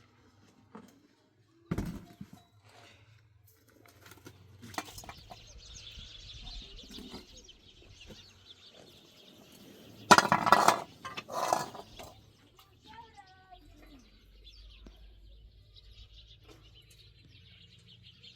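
Metal cooking pots and utensils clinking and clattering, with two loud bursts of clatter around ten and eleven seconds in. Birds chirp in the background.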